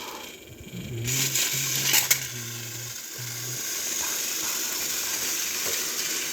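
Battery-powered TrackMaster toy train engines running on plastic track: a steady motor and gear whir with rattling, picking up about a second in, and a few sharp clicks around two seconds in.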